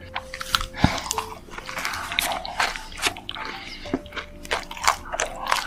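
Close-miked chewing of a chewy macaron: sticky, wet squishing mouth sounds with many small clicks and smacks.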